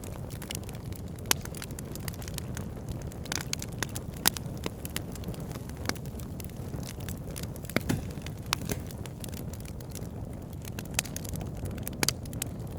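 Wood campfire crackling, with sharp pops at irregular moments, the loudest four spread through the stretch, over a steady low rumble.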